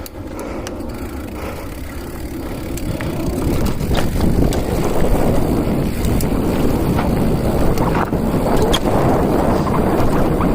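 Riding noise from an e-bike on the move: wind buffeting the microphone and a rumbling rattle, with scattered sharp clicks and knocks. It grows louder about three seconds in.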